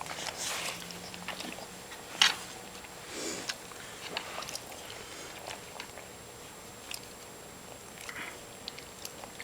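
Quiet, wet mouth sounds of small pets licking and chewing at one another, with scattered small clicks and one sharp click about two seconds in.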